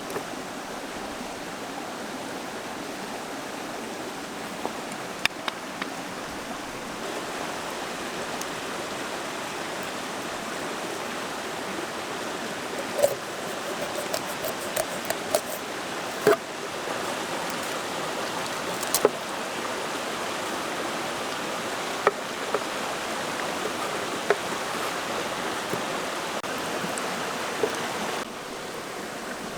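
Steady rushing noise with scattered sharp clicks and knocks, a cluster of them about halfway through; the rushing drops a little near the end.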